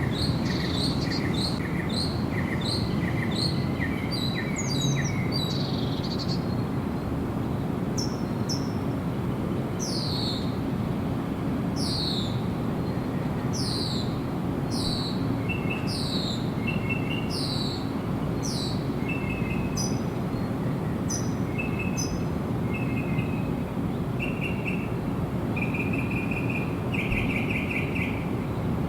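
Several birds singing over a steady low background rush. First comes a rapid series of short repeated notes for about six seconds. Then clear, downward-slurred whistles follow about once a second, and from about halfway, short buzzy trills grow stronger near the end.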